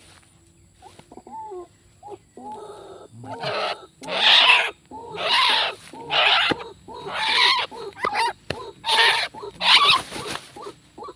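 An animal's loud, harsh cries repeated about once a second, after a few shorter, softer calls.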